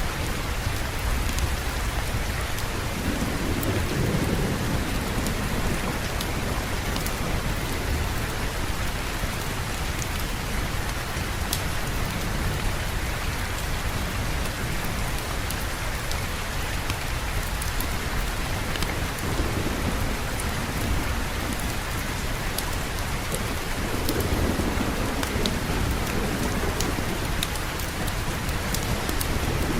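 Steady rain falling, with a low roll of thunder about four seconds in and another near the end.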